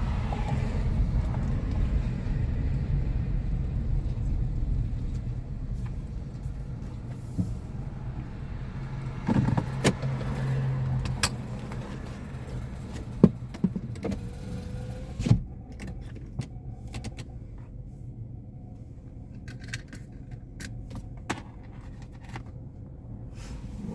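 Car engine running, heard from inside the cabin as the car parks; its low rumble fades and is gone about fifteen seconds in. Scattered clicks and knocks follow.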